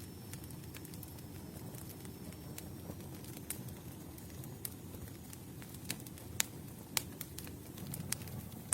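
Wood campfire crackling: a steady low rustle of burning with irregular sharp pops and snaps, the loudest two about six and a half and seven seconds in.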